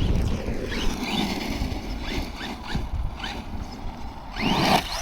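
Rival MT10 RC monster truck's electric motor revving in short bursts between backflip attempts, each burst heard as a brief rising whine over a steady rough noise, with a louder rising rev near the end.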